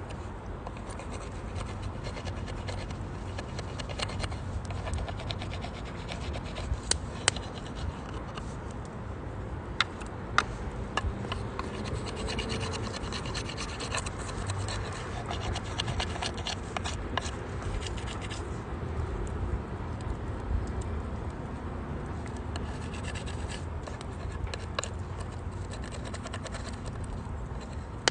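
Wood fire burning in a UNIFLAME Nature Stove Large, crackling steadily with scattered sharp pops over a low rushing sound.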